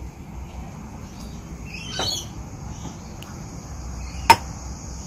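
Outdoor garden sounds: a short bird call about two seconds in, then a steady high insect drone that grows stronger. Near the end comes a single sharp clink of a glass jar.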